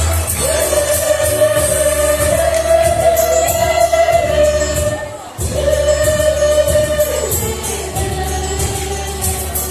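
A choir singing long held notes in chords, with a brief drop in sound a little past halfway before the singing resumes.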